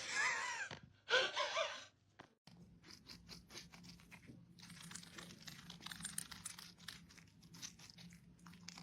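Two short pitched calls, then a long run of small crunches and clicks from about two and a half seconds in: an animal chewing food.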